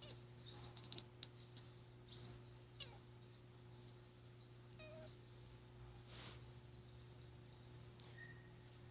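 House cat chattering and chirping at birds, the excited jaw-clicking call of a cat watching prey. It comes as a quick faint cluster of short high chirps in the first three seconds, then a few sparser chirps.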